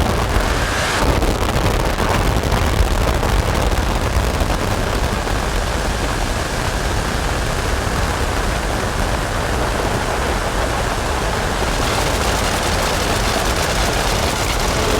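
Dense, distorted noise drone from a modular synthesizer and fuzz-pedal rig (Make Noise Strega, Maths and Morphagene into Death By Audio Evil Filter and Absolute Destruction): a steady rumble under a crackling hiss. The top of the hiss dulls for several seconds and opens up again near the end.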